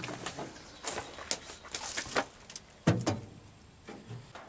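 A few light clicks and knocks, with one sharper, louder knock about three seconds in.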